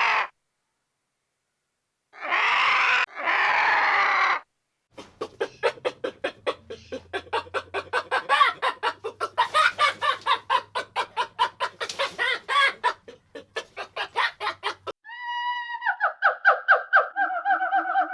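Two short, harsh screeching calls, then chickens clucking rapidly for about ten seconds, then a steady pitched call pulsing quickly near the end.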